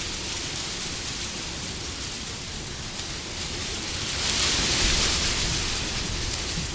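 Wind blowing as a steady rushing hiss. It swells into a stronger gust about four seconds in, then eases off.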